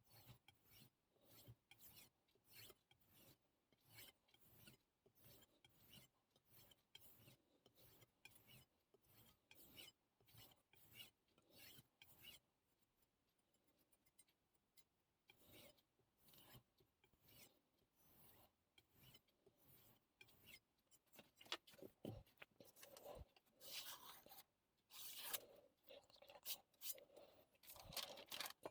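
A chef knife being stropped: the edge is drawn back and forth in quiet, even rubbing strokes, about two a second, with a short pause about halfway. Near the end the strokes become louder and less regular.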